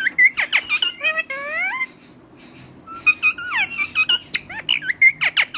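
Talking parrot chattering in rapid high-pitched whistles, chirps and squeaky, speech-like calls that slide up and down in pitch. The calls come in two bursts with a pause of about a second between them.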